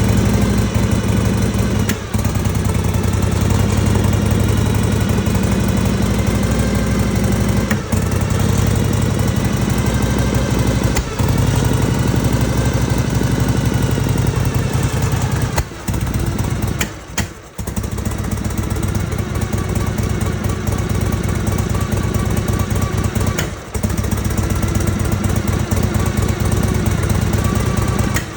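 Harley-Davidson Panhead V-twin engine running on a Mikuni carburetor, stumbling with a brief cough every few seconds and a longer falter about two-thirds of the way through. The coughs come from the Mikuni carb.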